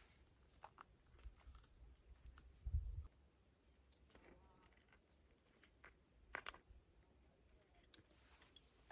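Faint scattered clicks and taps of small objects being handled, with a soft low thump about three seconds in and a sharper click a little past six seconds.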